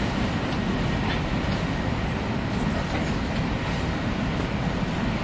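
Running noise of a 300 Series Shinkansen heard from inside a passenger car at speed: a steady, even rumble of wheels and track with a faint hiss above it.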